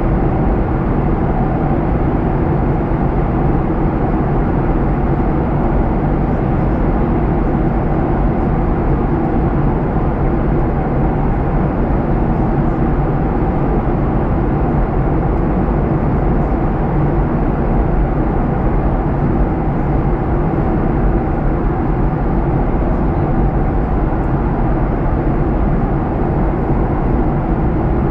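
Steady cabin noise of a Boeing 737-900ER in flight, the drone of its CFM56 jet engines mixed with rushing airflow, heard from inside the passenger cabin. It is a low, even, unchanging sound.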